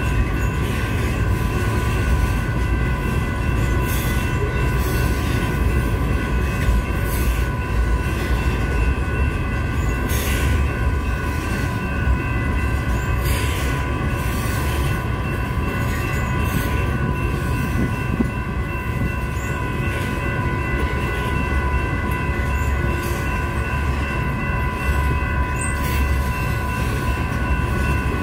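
Loaded covered hopper cars of a grain train rolling past a grade crossing: a steady low rumble of wheels on rail, with several steady high ringing tones held over it.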